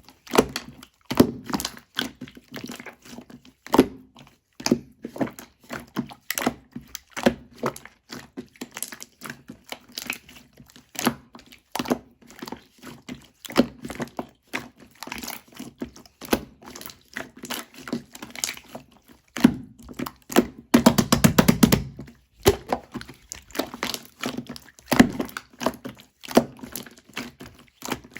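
Chewy slime being pressed, poked and stretched by hand, making irregular sticky clicks and pops. A denser run of squelchy crackling comes about twenty seconds in.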